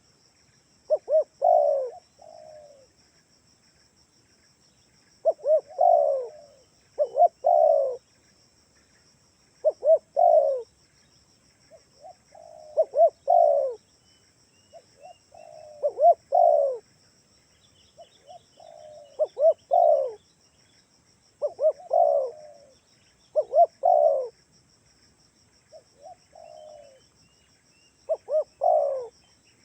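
Spotted dove (tekukur) cooing over and over, in short groups of coos that come every two to three seconds, with a faint steady high hiss behind.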